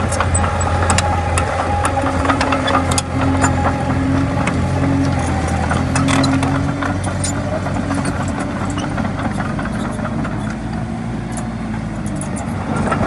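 Komatsu D20A bulldozer's diesel engine running steadily, with scattered short metallic clicks and clanks over it; the low engine hum eases off about halfway through.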